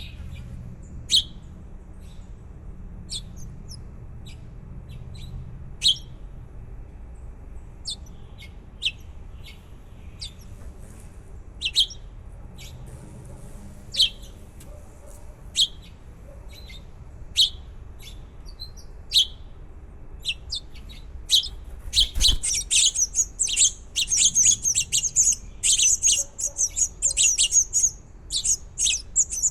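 Baby birds cheeping: single short high chirps every second or two, then a thump about 22 seconds in and a sudden burst of many rapid high cheeps from several chicks, like nestlings begging.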